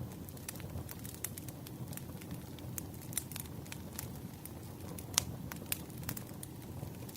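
Firewood burning: a steady low rumble of flames with frequent sharp crackles and pops, one louder pop about five seconds in.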